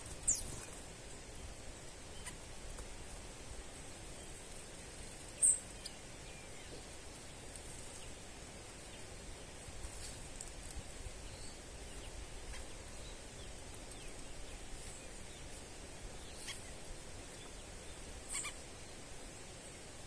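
Birds calling: a few short, high-pitched chirps, the clearest near the start, about five seconds in and near the end, with fainter ones between, over a steady faint outdoor hiss.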